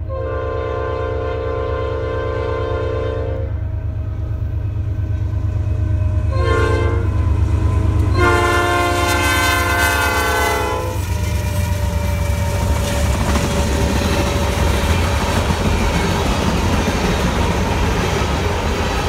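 Norfolk Southern freight locomotive's air horn sounding for a road crossing as the train arrives: a long blast, a short one, then another long one, a chord of several notes over the low rumble of the diesel locomotives. The horn stops about eleven seconds in, and the ethanol tank cars rumble and clatter past.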